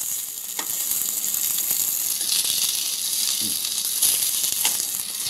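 Stuffed bitter gourds sizzling as they shallow-fry in hot oil in a kadhai, with a few light clicks of a metal spatula against the pan as they are turned over.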